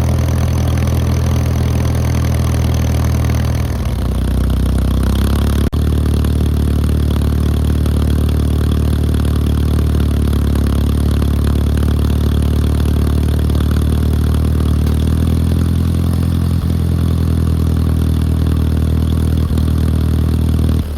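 Case D tractor's four-cylinder engine running steadily. The engine speed changes about four seconds in, then holds even.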